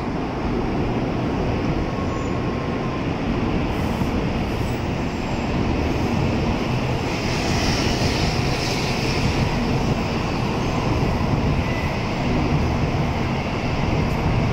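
N700A-series Shinkansen train pulling out of the station, its cars rolling past in a steady rush that grows gradually louder as it gathers speed.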